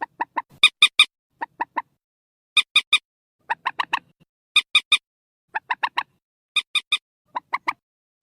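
Purple swamphen calls: short, clucking notes in quick groups of two to four, each group about a second after the last. This is a recorded lure call for netting the birds at night.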